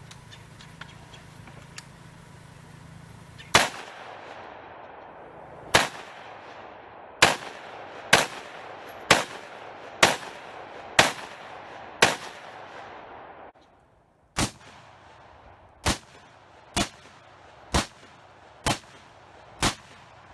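Bushmaster AR-15 rifle fired semi-automatically at a steady pace of about one shot a second: eight shots, a brief pause, then six more, slightly quieter.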